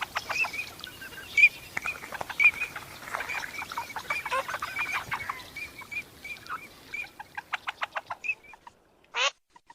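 A flock of Eurasian teal calling: many short, high, repeated whistled notes overlapping, thinning out near the end with one loud call just before the close.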